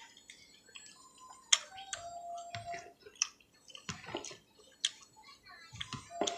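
Close-up eating sounds from a bowl of bean soup: a few sharp clinks of a spoon against the bowl, with wet slurping and chewing between them.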